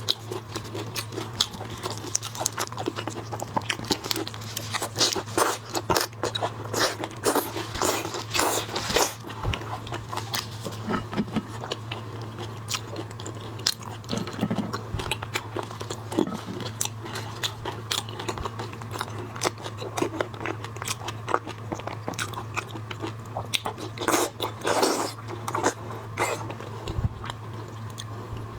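Close-miked eating of shrimp and crab: repeated biting, crunching and wet chewing, with louder bursts of crunching a few seconds in and again near the end. A steady low hum runs underneath.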